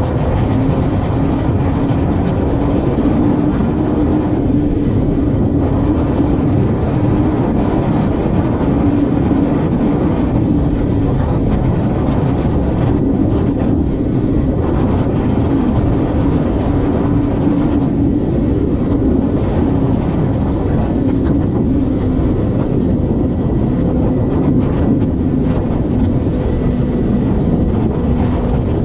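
Vehicle cruising at steady highway speed: a constant engine drone over heavy road and wind rumble.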